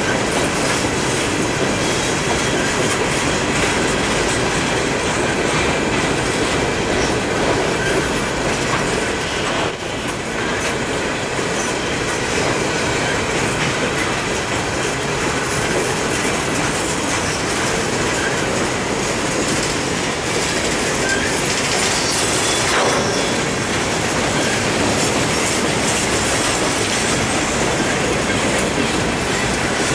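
Freight train cars (open-top hoppers, covered hoppers and boxcars) rolling past: a steady rumble and clatter of steel wheels over the rail joints.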